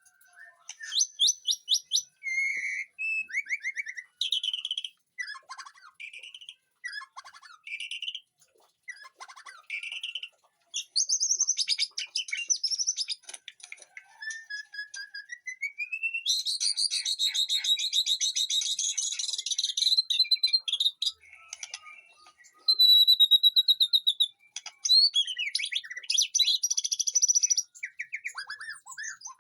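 White-rumped shama singing: a long, varied run of whistled phrases and rapid trills, with a slow rising whistle just before the middle and a dense buzzing trill held for several seconds after it.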